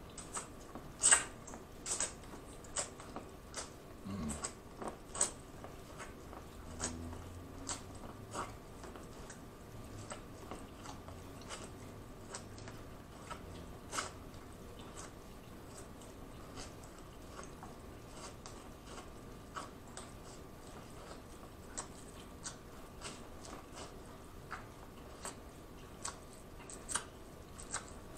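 Biting and chewing corn on the cob: sharp, irregular crunchy clicks a few times a second, the loudest about a second in.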